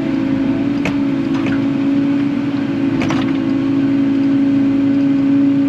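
Kubota KX080 excavator's diesel engine running steadily with a constant hum while it digs, with two short knocks, about one second in and about three seconds in.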